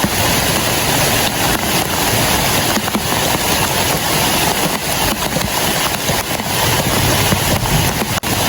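Heavy rain falling on a clear plastic sheet shelter: a loud, dense, steady hiss with a fine pattering texture.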